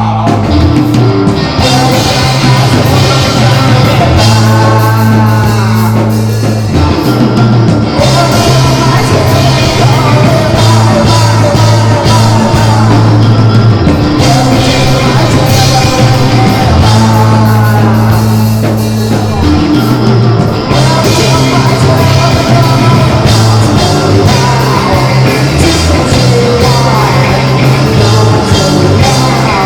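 Live band playing loud rock music, with long held bass notes that change every few seconds under bending melodic lines and drums.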